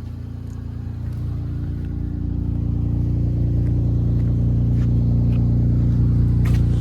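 Vehicle engine running after a cold start. It grows louder over the first three seconds, then holds steady.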